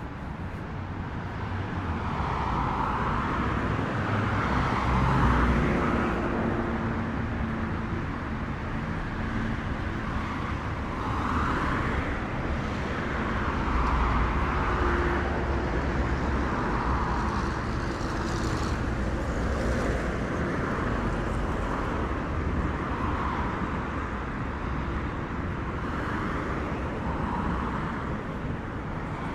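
City street traffic: cars passing and a steady road rumble that swells and fades as vehicles go by, with brief engine hums now and then.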